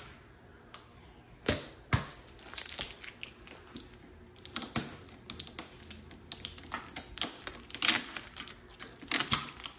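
Irregular clicks, snaps and crinkles of packaging being pulled and handled while unboxing a chest freezer, a few sharper snaps standing out.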